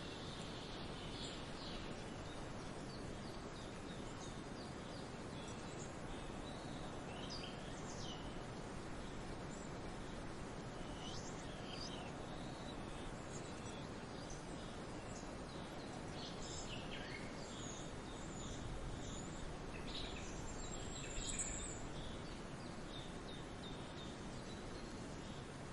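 Songbirds chirping and calling in short, scattered bursts over a steady hiss of outdoor background noise.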